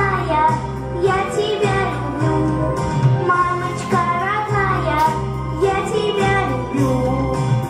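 A children's song: child voices singing over an instrumental backing track with a steady, pulsing bass.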